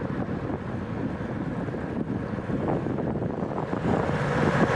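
Wind rushing over the microphone of a rider's onboard camera at racing speed on a bicycle. The rush grows louder about four seconds in.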